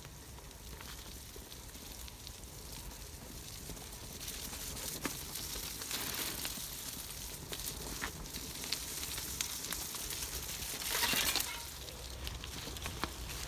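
Gravel bike tyres rolling over a woodland track: a steady crunching hiss scattered with small clicks and crackles, swelling into a louder rush near the end.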